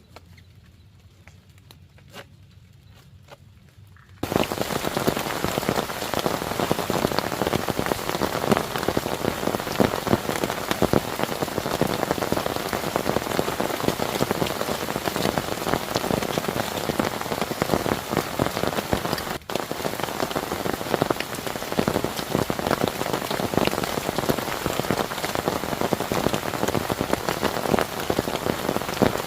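Heavy rain falling on a surface, a dense, loud hiss of countless drop impacts that cuts in suddenly about four seconds in, after a few quiet seconds with faint ticks. A very brief dropout comes about two-thirds of the way through.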